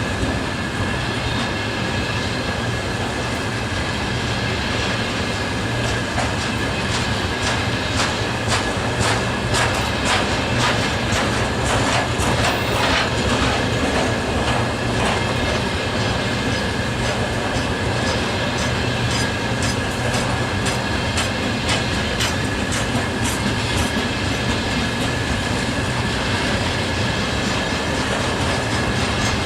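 Freight train wagons rolling past, their wheels clicking rhythmically over the rail joints, with a steady high ringing tone from the wheels on the rails.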